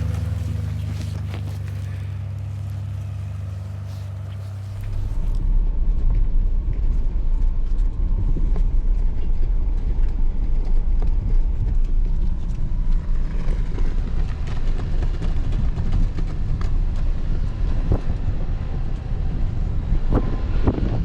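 Off-road vehicle engine running steadily with an even low hum for about five seconds, then a sudden change to a rough, noisy rumble of the vehicle driving through deep snow, with wind on the microphone.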